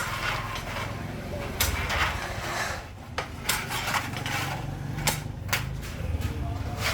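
Sheet-metal work on a kettle: about five sharp metal knocks and clanks over a steady low machine hum.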